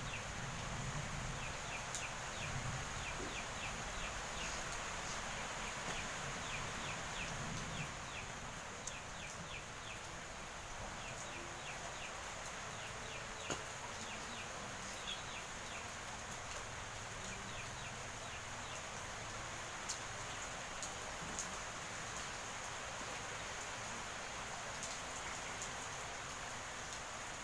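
Steady rain hissing, with a rapid series of short, high chirps from small creatures over it, thickest through the first half.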